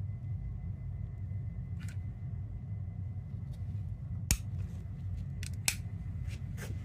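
Oil burner running with a steady low rumble, and a couple of sharp clicks about four and six seconds in.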